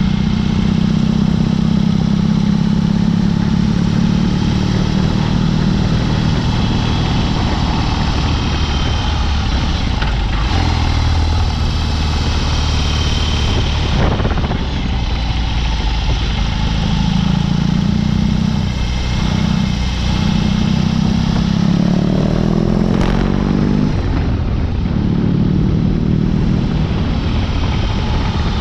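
BMW R18's big boxer-twin engine running through a Dr. Jekill & Mr. Hyde exhaust while the bobber is ridden. The engine note rises and falls with the throttle, dips lower partway through, and climbs quickly under acceleration about 22 seconds in.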